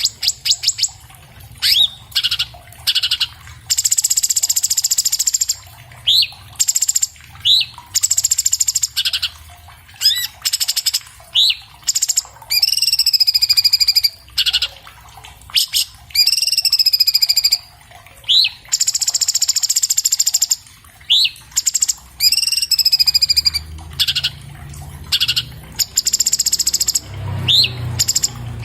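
Orange-bellied leafbird (cucak cungkok) singing a fast, dense song. Harsh, rasping phrases alternate with short, sharp rising chirps, the pattern repeating every second or two.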